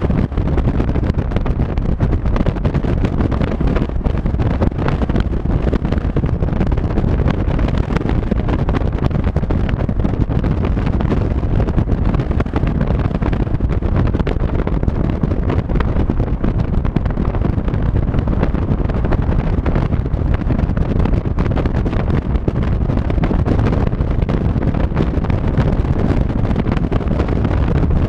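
Wind buffeting the microphone of a moving vehicle: a loud, steady low rumble of wind and travel noise.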